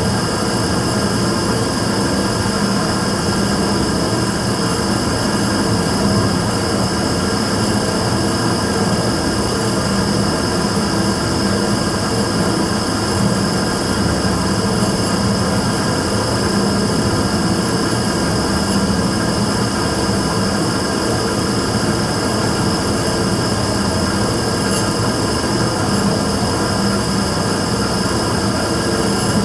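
Immersion tube burner running with a steady combustion and blower noise and constant hum tones, unchanging throughout. This is the running noise the uploader records as abnormal (異音).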